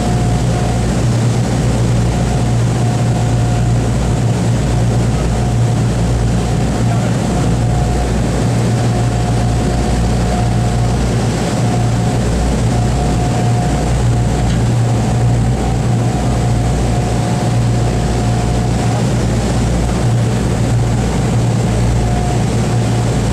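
Large piston aircraft engines running steadily, a deep even drone with a thin steady whine above it. They are most likely the B-29 Superfortress's Wright R-3350 radial engines.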